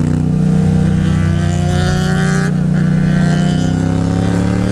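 Yamaha MT-07's 689 cc parallel-twin engine through an aftermarket Akrapovič exhaust, pulling under load while riding, its deep note rising slowly in pitch as the revs climb.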